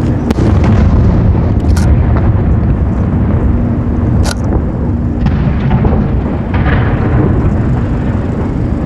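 Aerial firework shells bursting in quick succession, a continuous heavy rumble of booms with sharp cracks about two and four seconds in and a crackling spray near seven seconds.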